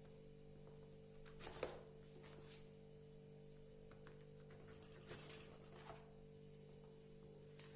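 Near silence: a low steady hum with a few faint taps, about one and a half and five seconds in.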